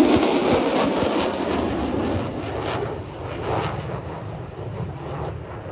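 Airplane flying past, its engine noise a steady rush that fades away as the aircraft moves off.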